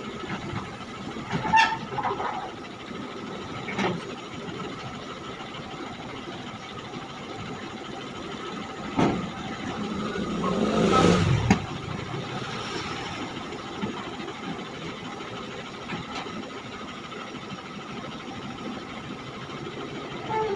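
Backhoe loader's diesel engine running steadily, with a few sharp clanks, and swelling louder for a second or two about ten seconds in.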